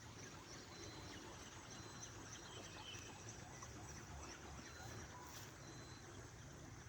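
Faint outdoor ambience: a low steady background with faint high chirps and short high beeping tones about once a second.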